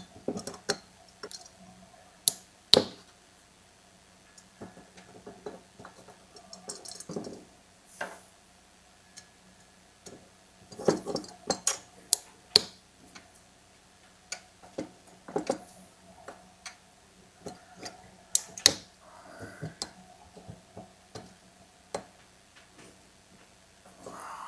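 Small metal chainsaw engine parts and hand tools being picked up and set down on a workbench: scattered sharp clicks, taps and clinks at irregular moments, over a faint steady hum.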